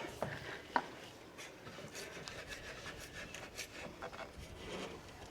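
Clamps being tightened on a stone window sill: faint scraping and rubbing with small ticks, and one sharper click under a second in.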